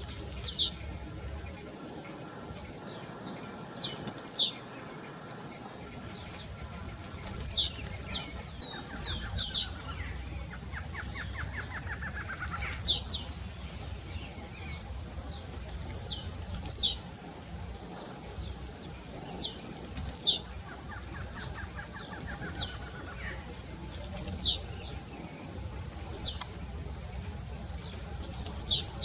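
Blue-black grassquit (tiziu) singing its short, sharp descending note, often as a quick double, repeated every three to four seconds over a steady high thin tone.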